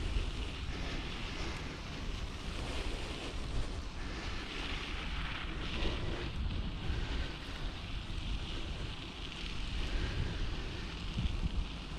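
Air rushing over and buffeting the microphone of a camera riding on a moving bicycle, a steady rumbling rush with a hissing layer above it from the ride.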